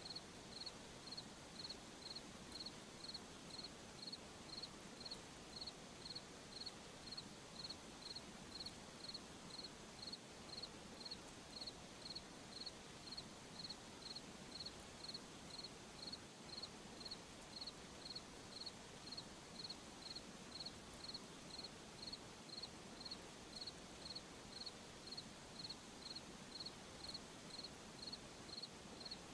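A cricket chirping steadily, a short high-pitched chirp about twice a second, over a faint background hiss.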